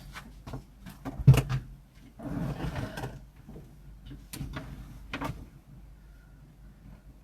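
A series of sharp clicks and knocks from things being handled, the loudest about a second in, with a short rasping noise lasting about a second, about two seconds in.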